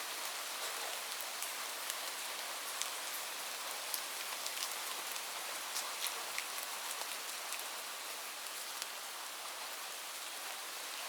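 Light rain falling steadily, a soft hiss with scattered individual drops ticking on a surface.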